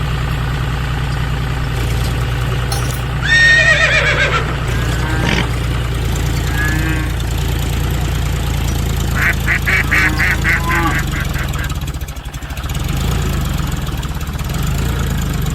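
Tractor engine idling with a steady low hum. Over it, a loud call swoops in pitch about three seconds in, and a quick run of about ten short, pitched chirps follows around nine seconds in.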